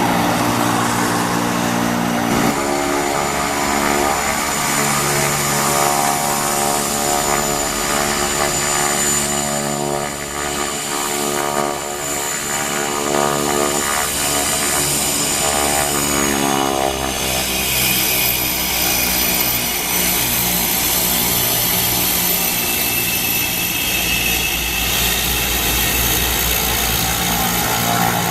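Cessna 208 Caravan's single Pratt & Whitney PT6A turboprop and propeller running steadily with a high turbine whine. The engine tones shift in pitch about two seconds in and again around sixteen seconds in, as the power changes.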